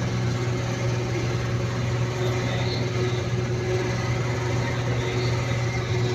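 A steady machine hum, with a strong low drone and an even hiss over it, running without change.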